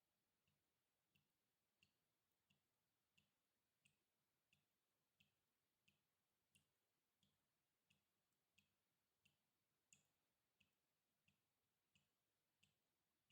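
Water dripping in a steady, even rhythm, about three drops every two seconds, each one a faint, short plink. One drop about two-thirds of the way through is a little louder than the rest.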